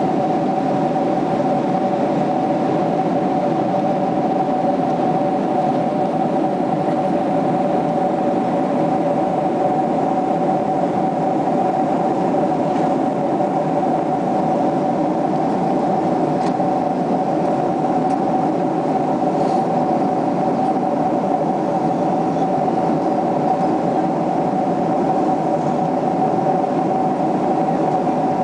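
Boeing 767-300ER cabin noise in cruise: a constant rush of engine and airflow noise with two steady mid-pitched hums over it.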